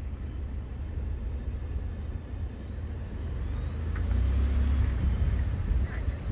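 Steady low rumble of a moving vehicle, heard as road and engine noise, growing a little louder about two-thirds of the way through.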